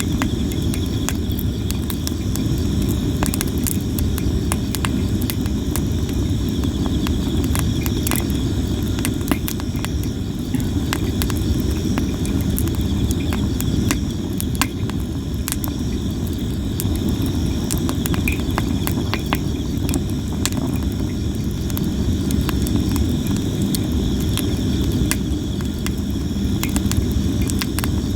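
Sawara (Japanese cypress) firewood burning, crackling and popping constantly in sharp irregular snaps over a steady low rumble, with insects trilling steadily in the background.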